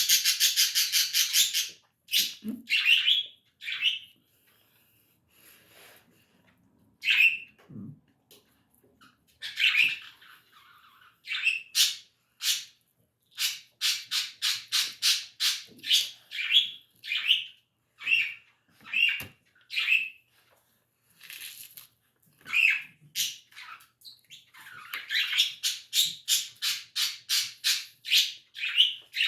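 Small birds chirping: fast runs of short, high chirps at the start and again near the end, with scattered single chirps and short calls in between.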